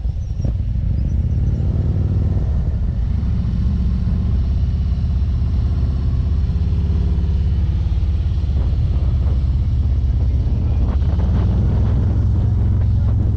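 Motorcycle engine running under way, over a steady low rumble like wind on the microphone. Its pitched note shows more strongly at some moments than others.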